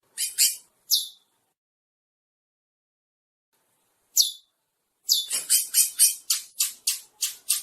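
Chestnut-bellied seed finch (curió) singing: a few high notes at the start, a single falling note about four seconds in, then a quick run of about nine notes, some four a second, near the end.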